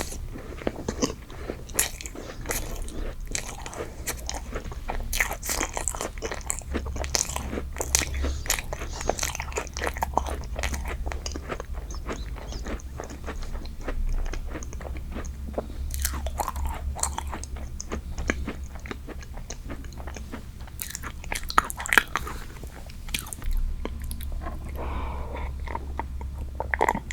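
Close-miked eating sounds: biting into and chewing a strawberry dessert, with many small wet clicks of the mouth and a few sharper ones later on.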